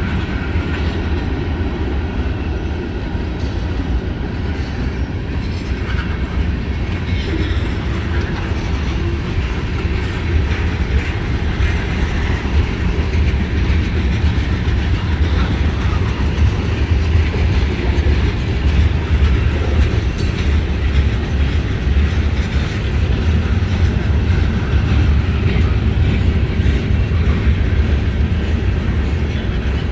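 Freight cars of a long CSX mixed freight train rolling past on the rails: a loud, steady deep rumble with wheel clatter, a little louder from about ten seconds in.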